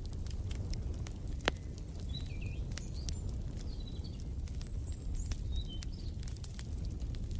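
Wood fire in a fireplace crackling with frequent sharp pops over a low steady rumble, with faint bird chirps in the background.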